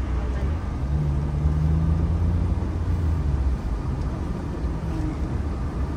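Road vehicle driving, a steady low rumble of engine and road noise. An engine hum comes in about a second in and fades out after about three and a half seconds.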